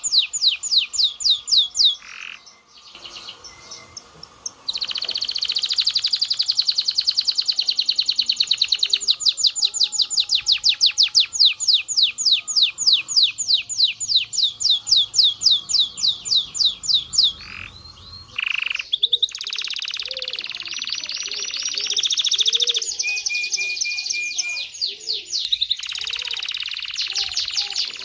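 Domestic canary singing: long, fast trills of rapidly repeated high notes, broken by a short lull about two seconds in, then changing to different rolls in the later part.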